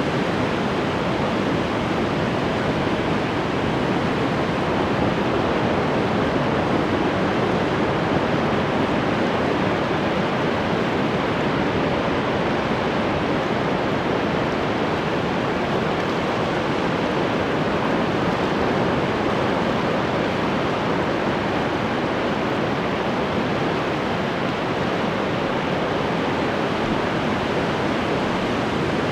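Ocean waves breaking and washing on the shore, a steady unbroken rush of surf with no distinct wave crashes standing out.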